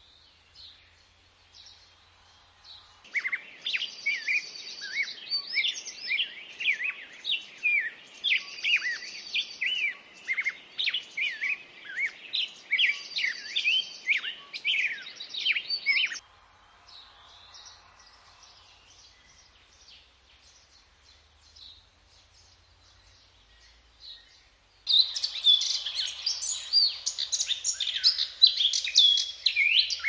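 Birds calling: many quick, overlapping chirps and whistles, sweeping up and down in pitch. They come in two loud spells, one from about three seconds in to about the middle, the other near the end, with only scattered faint chirps between.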